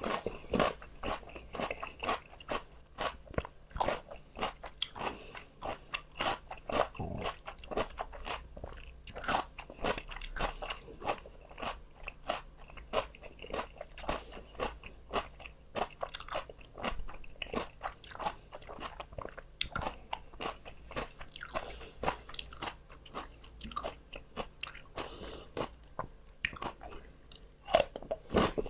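Crunching and chewing raw, fresh vegetables: a quick, irregular run of crisp bites and crunches, several a second, with no pauses.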